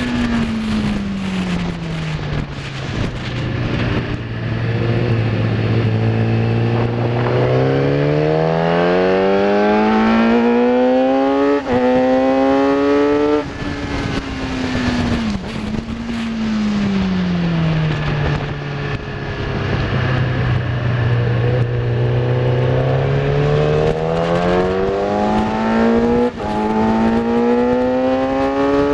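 Kawasaki ZX10R inline-four sportbike engine on track, heard from on the bike. The engine note falls as the throttle closes into a corner and holds low through it. It then climbs hard under acceleration with quick dips at the upshifts, and the whole pattern happens twice.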